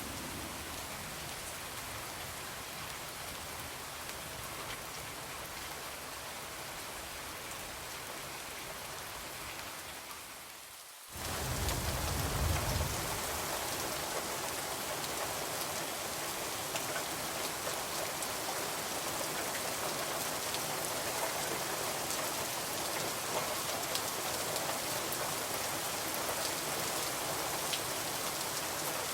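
Steady rain falling on a window. A little before halfway it fades away, then comes back louder with a brief low rumble.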